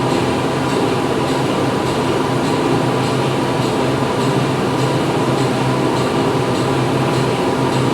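Steady drone of factory machinery: a constant low hum under dense mechanical noise, with a faint regular ticking about twice a second.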